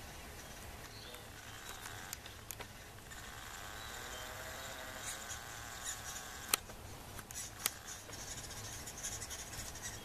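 Faint high bird chirps, with two sharp clicks a second apart in the second half.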